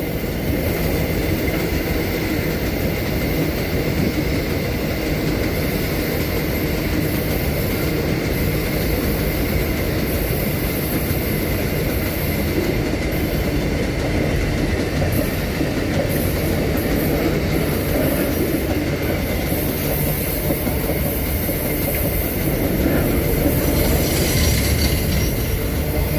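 Empty freight wagons of a train rolling past: a steady rumble and rattle of steel wheels on the rails, with a thin high tone running through it. It grows a little louder near the end.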